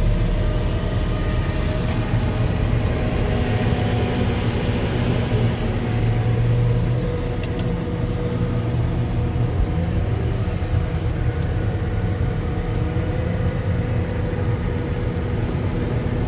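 Volvo L70H wheel loader working as a snow blower, heard from inside its cabin: a steady, loud diesel engine drone with a low hum.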